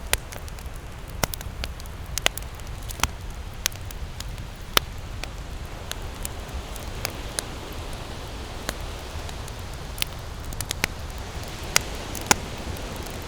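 Wood campfire crackling: sharp pops and snaps at irregular intervals, a few much louder than the rest, over a steady low rush of burning.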